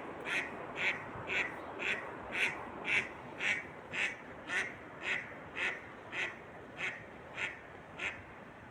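A bird calling in a steady series of short, harsh notes, about two a second, which stop shortly before the end.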